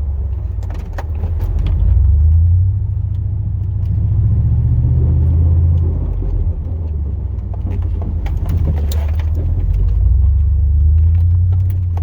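The 8.1-litre big-block V8 of a 2002 Chevrolet Silverado plow truck running under load, its low drone swelling and easing several times with the throttle. Occasional light rattles and clicks sound over it.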